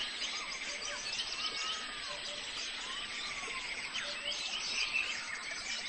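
Several birds calling outdoors: a scatter of short chirps and a few slurred whistles that rise and fall, over a steady background of open-country ambience.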